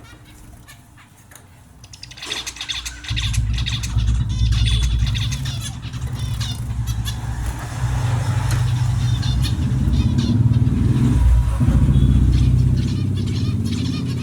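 Small birds chirping rapidly over a loud low rumble that starts about three seconds in.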